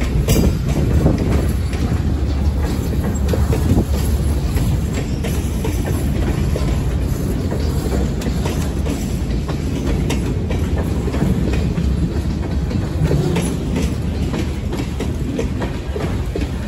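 Freight train rolling past with a steady low rumble, its wheels clicking over the rail joints.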